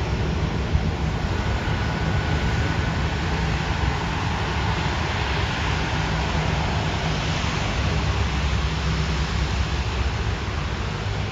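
Jet airliner engine noise: a steady rushing roar with a heavy low rumble, and a faint thin whine that fades out about halfway through.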